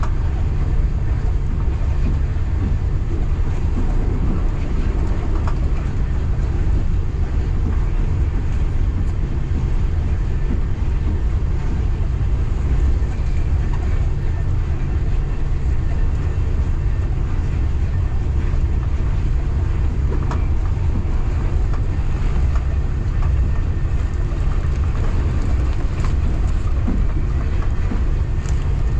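Local passenger train running at steady speed, heard from inside the carriage: a continuous heavy low rumble with a few faint clicks.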